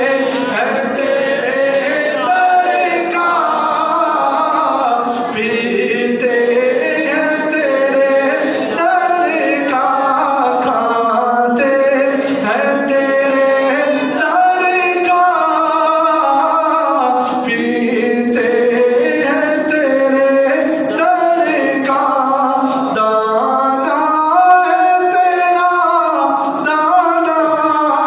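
A voice singing an Urdu naat in long held, gliding notes, without any drum beat.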